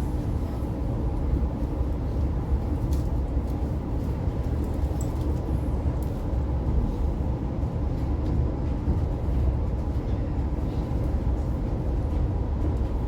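Oscar H set electric train running, heard from inside the carriage: a steady low rumble of wheels and running gear with a faint steady hum above it.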